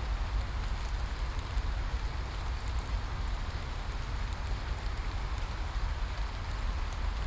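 Steady rain: a constant hiss of falling rain with scattered sharp drop ticks, over a low steady rumble.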